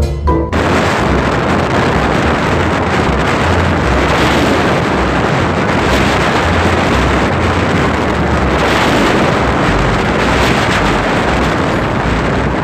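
Wind rushing over the microphone of a moving motorcycle, a steady loud noise with the engine and road rumble beneath it.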